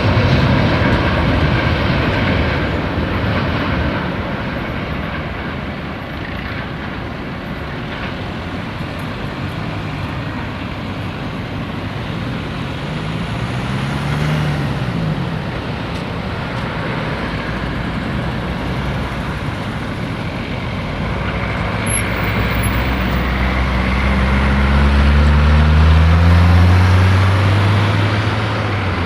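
Rumble of a passing freight train fading over the first few seconds, then a steady background of vehicle noise. A motor vehicle's engine revs up and falls back briefly about halfway through, and another engine speeds up and grows louder near the end.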